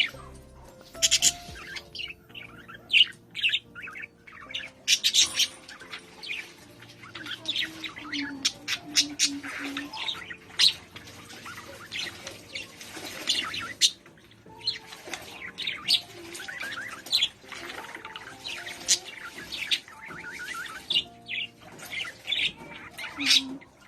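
A pair of pet lovebirds chirping and squawking, many short, sharp, high calls in quick runs, over soft background music.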